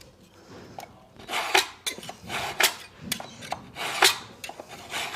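Score-and-snap knife drawn along a straight edge across a 10 mm fibre cement weatherboard, scraping in about four strokes roughly a second apart as the face is scored deeper before snapping.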